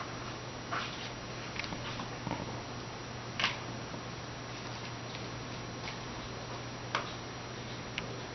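Soft, scattered scratches and taps, about five over several seconds, from 4-week-old kittens shifting about in a cardboard box, over a steady low hum and hiss.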